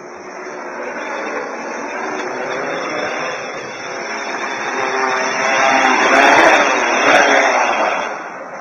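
XAircraft X450 quadcopter's motors and propellers buzzing as it flies past, growing louder to a peak about six to seven seconds in, then fading.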